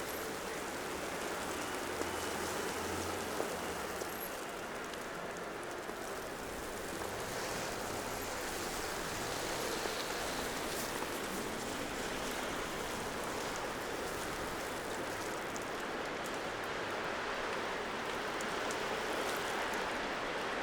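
Steady wet hiss of a snowy city street, like rain or slush, with scattered small ticks and a faint low engine hum a couple of seconds in.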